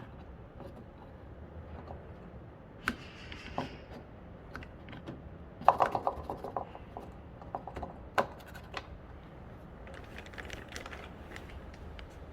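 Scattered light clicks and knocks of tools and parts being handled, with a quick run of about eight clicks around the middle and single sharp knocks near the start and about eight seconds in.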